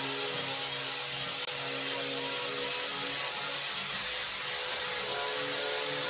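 Angle grinder grinding rust off a bus's steel floor pan: a steady gritty hiss over the motor's hum, which shifts in pitch as the load changes.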